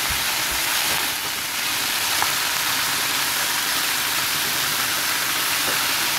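Chickpeas frying in oil in a pot, a steady sizzle while a spoon stirs them.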